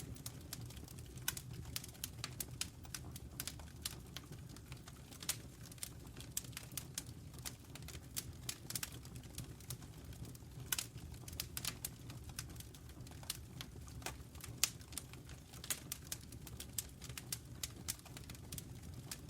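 Wood fire crackling in a fireplace: irregular sharp pops and snaps, several a second, over a low steady rumble of the flames, with a couple of louder snaps past the middle.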